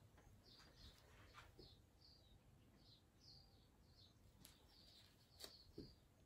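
Near silence with faint, short, high chirps from a small bird, repeated about twice a second, and a couple of faint clicks near the end.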